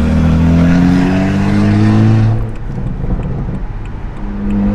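Straight-piped BMW 135i's N54 3.0-litre twin-turbo straight-six heard from inside the cabin. The exhaust note rises in pitch under acceleration for about two seconds, drops away suddenly, then settles back to a steady drone near the end.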